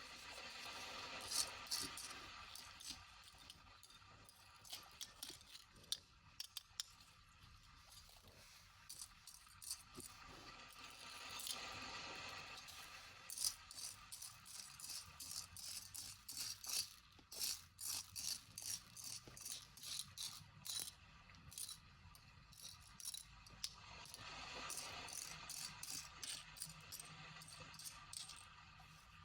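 Sea waves washing in and out in slow swells about every twelve seconds, with close, sharp rattling and clicking of small hard objects being handled, densest in the middle.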